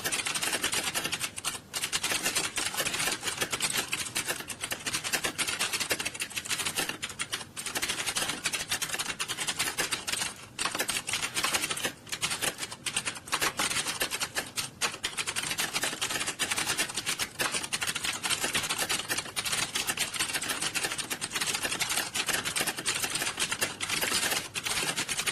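Many computer keyboards typed on fast at once, a dense, continuous clatter of overlapping key clicks, the sound of a roomful of candidates in a timed typing test.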